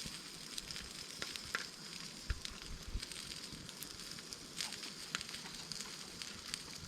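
Wood fire crackling in a fire pit: scattered sharp pops over a steady hiss, with two soft low thuds a little over two seconds in.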